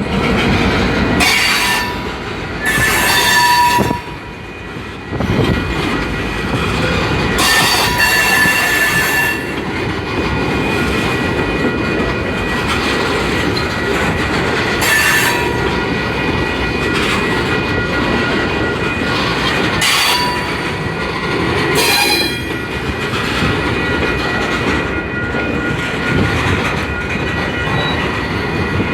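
Freight train cars rolling past at low speed: a steady wheel-and-rail rumble with clacking over the rail joints. High-pitched wheel squeals come and go several times.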